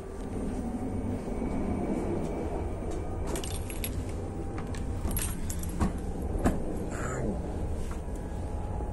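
CityElephant double-deck electric train running at speed, heard from inside the passenger cabin as a steady low rumble. Light rattling and clicking comes in through the middle, with two sharper knocks a little past halfway.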